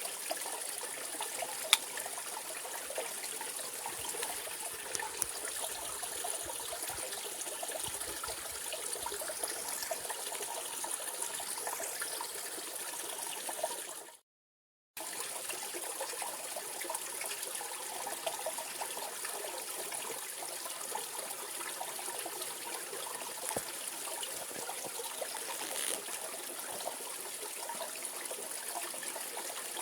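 Mountain valley stream running over rocks, a steady rush and trickle of water. About halfway through it fades out, drops to silence for under a second, then comes back abruptly.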